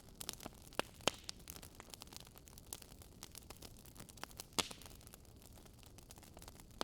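Wood fire crackling: a steady low hiss under scattered irregular pops and snaps, with a few louder pops, about a second in and again near the middle.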